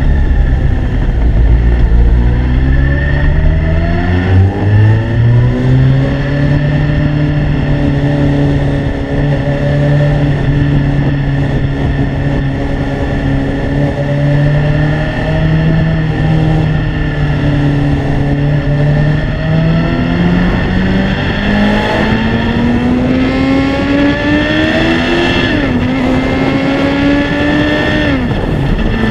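Suzuki Hayabusa's 1300cc inline-four engine accelerating away from a standstill, its note climbing steadily for several seconds and then holding level at cruising speed. Later the revs climb again, drop sharply once and recover, then fall away near the end.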